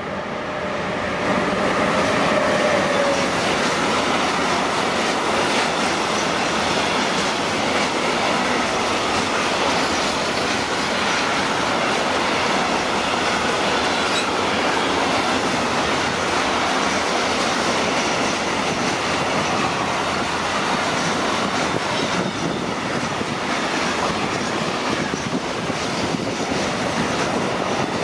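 A train passing close by: loud, steady rolling of steel wheels on the rails, building over the first two seconds and then holding.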